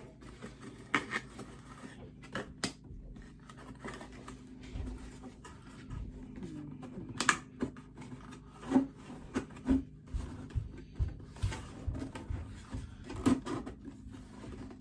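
Handling noise: scattered clicks, taps and rustles as clothing and packaging are handled, coming more often in the second half, over a low steady hum.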